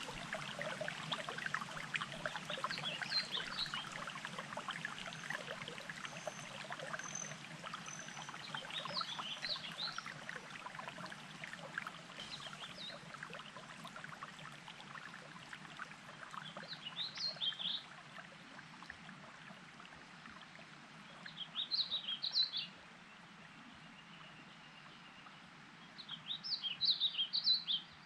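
Trickling, burbling water, strongest in the first several seconds and fading as it goes. A songbird repeats a short chirpy phrase about every four to five seconds, and these phrases are the loudest sounds later on. A thin, high note repeats faintly a few times early on.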